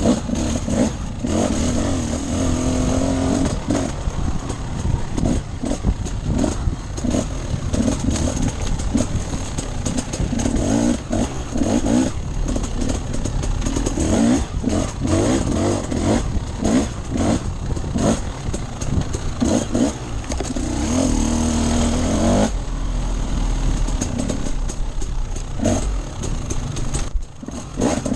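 Off-road enduro motorcycle engine revving up and down again and again as the bike is ridden over rough ground, with steady wind and rumble noise underneath. The engine drops off briefly near the end, then revs up again.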